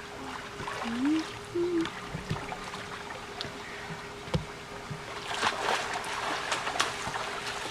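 Water splashing and trickling around a moving boat under a steady hum, the splashing growing busier in the second half. A few short rising and falling tones sound in the first two seconds.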